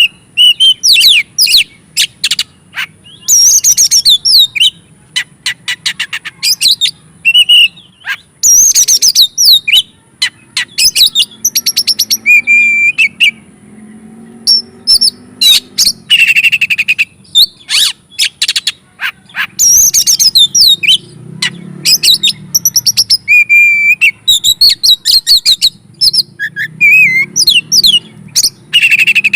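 Oriental magpie-robin (kacer) singing loudly in fast, varied whistled and chattering phrases mixed with sharp clicking notes, broken by a few short pauses. This is the bird in full, vigorous song ("gacor"), the kind of song used as a lure to rouse other magpie-robins.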